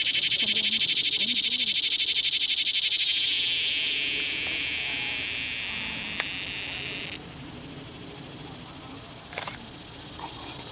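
Cicada singing a loud, buzzy song that stops abruptly about seven seconds in. After it comes a faint, evenly spaced high ticking, and a single sharp click near the end.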